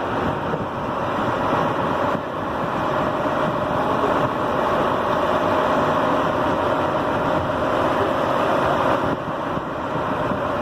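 Fishing boat's engine running steadily, a constant drone under wash and wind noise.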